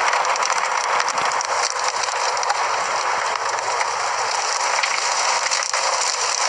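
Heavy rain and wind hitting a storm-chase vehicle: a steady hiss with many small ticks of drops. This is the tornado's rear-flank downdraft pounding the vehicle.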